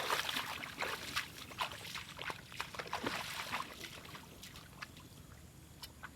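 Water splashing and trickling in irregular small splashes, thinning out and fading toward the end.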